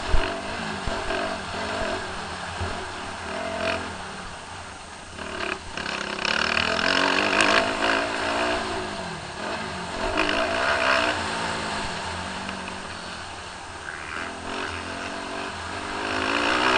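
Motocross bike engines revving up and down, pitch rising and falling over and over as the bikes accelerate and shift, loudest about six to eight seconds in and again near the end.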